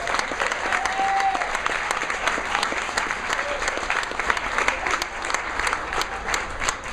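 Audience applauding steadily in a hall, with a few cheers early on.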